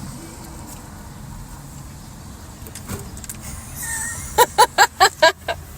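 Car engine idling with a low steady rumble. About four seconds in comes a quick run of about six short, sharp voiced sounds.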